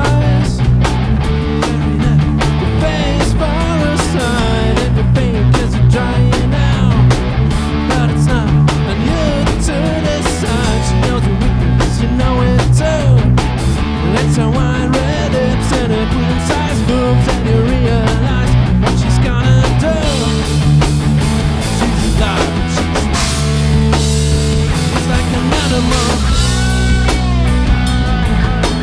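Rock band playing live: electric guitars, bass guitar and drum kit, with a guitar line wavering and bending in pitch above the steady bass.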